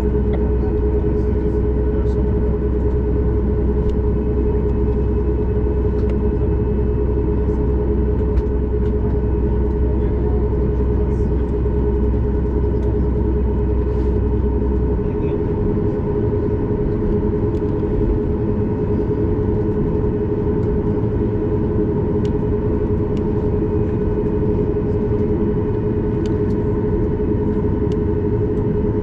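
Cabin noise of a Boeing 737 MAX 8 on the ground with its CFM LEAP-1B engines at idle, heard from a window seat: a steady hum and rumble with a constant whine. The deepest rumble changes about halfway through.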